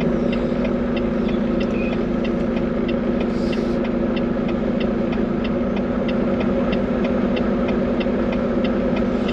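Diesel engine of a Volvo VNL 860 semi truck running steadily at low speed, heard from inside the cab, with a faint regular ticking about three times a second.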